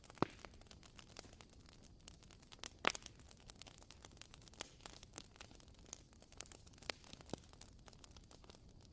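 Wooden wick of a WoodWick candle crackling, with faint, irregular sharp pops over a low hiss; two pops stand out, one just after the start and one about three seconds in.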